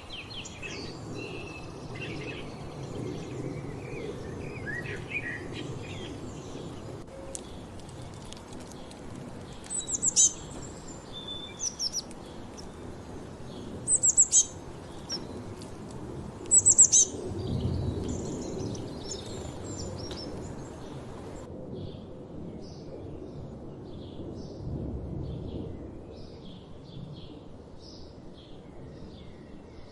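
Wild birds singing and calling over a low outdoor rumble, with several loud, high, sharp chirps in quick clusters around the middle and a run of short repeated notes later on.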